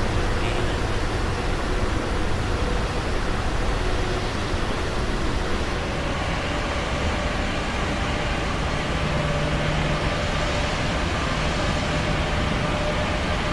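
Steady rushing noise of an airplane's engines and airflow, with faint steady hums underneath; a low hum joins about nine seconds in.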